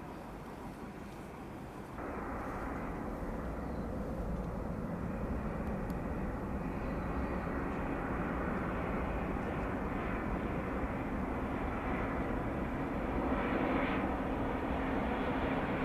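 Jet engine noise from an Airbus A350-941's Rolls-Royce Trent XWB engines, a steady rumble that comes in about two seconds in and grows louder as the airliner approaches.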